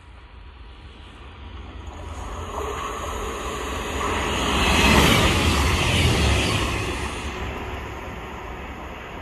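Passenger train approaching and running through the station: its noise builds to a peak about halfway through, then fades as it moves away.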